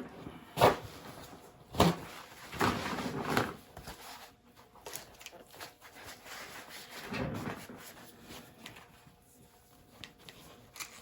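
Handling noise from paint-mixing containers: two sharp knocks about a second apart near the start, then intermittent scraping and rustling.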